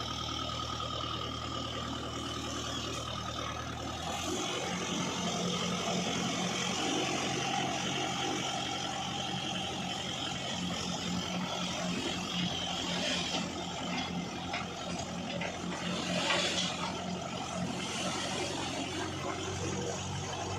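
Diesel engine of a loading machine running steadily, then speeding up about four seconds in and holding the higher speed.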